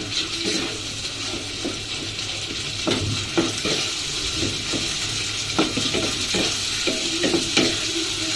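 Spiced masala paste (onion, garlic, ginger, tomato, chilli and coriander paste) sizzling steadily in oil in a pan over a raised flame, stirred with the spoon scraping the pan now and then. This is the bhuna stage of frying the masala until the oil separates.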